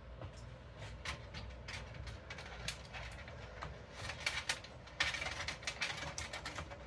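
Irregular clicks, taps and rustling of cables and parts being handled inside a computer case, busiest in the second half.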